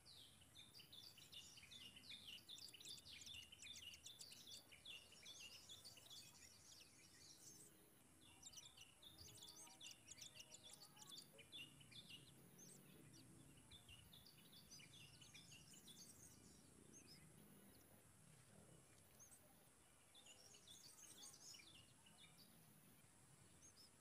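Faint, rapid high-pitched bird chirping in several bursts a few seconds long, over a low background hiss.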